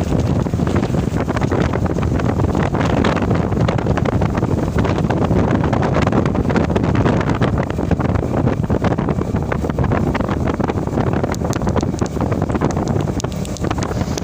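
Truck driving along: steady engine and road noise with wind noise on the microphone and frequent small rattles.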